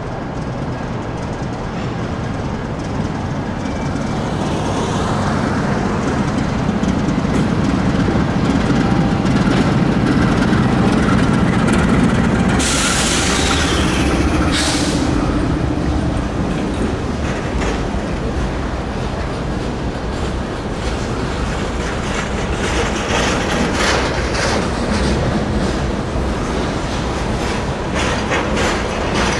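Norfolk Southern GE C44-9W freight locomotive rumbling past, then a long string of new GE export locomotives for India being hauled in its train, wheels clicking over the rail joints. A loud hiss lasts about two seconds midway, with a shorter one right after it.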